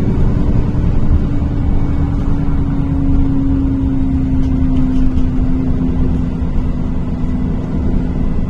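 Inside a NefAZ-5299 city bus under way: engine and drivetrain running over road rumble, with a steady low whining tone that sags slightly in pitch.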